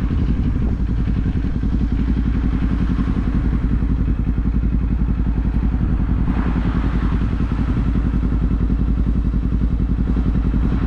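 Kawasaki Z400 parallel-twin motorcycle engine running at a steady, even pitch. A brief rush of noise sounds about six seconds in.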